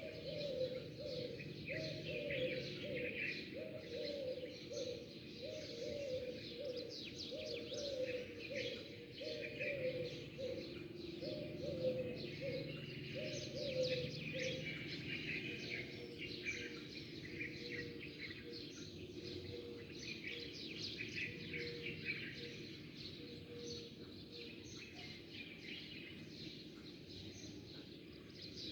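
Many small birds chirping and twittering together. A lower bird call repeats in a quick series of short hooting notes, about one and a half a second, and stops about halfway through. A steady low background hum sits underneath.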